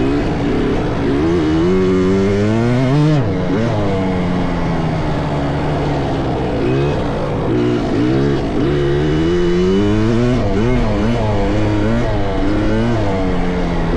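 Small dirt bike engines on a motocross track, revving up and dropping off again and again as the bikes ride. Several engines overlap, with one throttle chopped abruptly about three seconds in.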